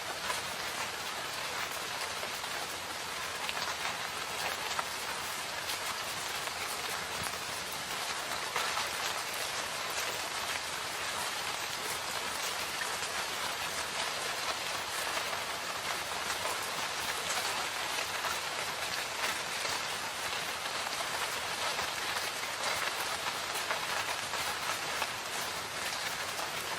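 Steady rain falling in a forest: an even hiss of rainfall with many small drop impacts pattering on surfaces.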